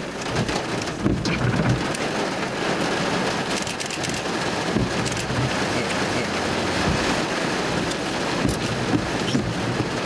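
Steady rain, with many sharp single drops hitting, falling on a stopped storm-chase vehicle and heard from inside it.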